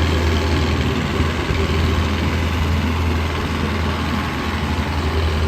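Tractor's diesel engine running steadily with a deep, even hum.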